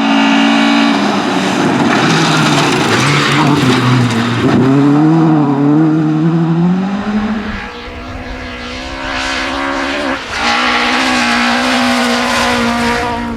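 Rally car engine heard from inside the car, running hard at high revs, its pitch rising and falling with throttle and gear changes. The revs and loudness drop about eight seconds in, with a short break in the engine note about ten seconds in, before it pulls hard again.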